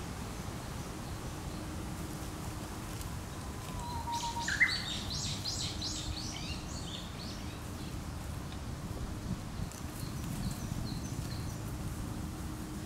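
A songbird singing over steady outdoor background noise. About four seconds in, a short whistle and a quick rising note lead into a run of rapid high notes lasting about two seconds. A few fainter high notes follow later.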